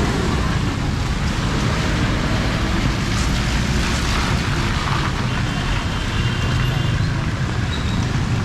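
Steady street noise on a flooded road in heavy rain: a vehicle engine hum under a constant wash of water.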